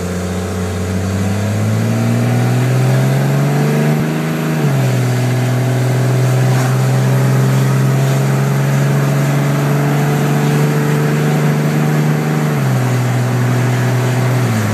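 Cummins 24-valve 5.9-litre inline-six turbodiesel in a 2000 Dodge Ram pickup, with the muffler removed, accelerating hard from a launch. The engine note climbs, drops about four and a half seconds in as the transmission upshifts, climbs slowly again, then drops once more near the end.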